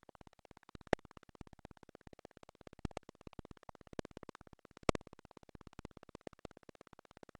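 A rapid, even train of faint clicks, like a crackling buzz, with a few louder clicks standing out about a second in, near three seconds and near five seconds.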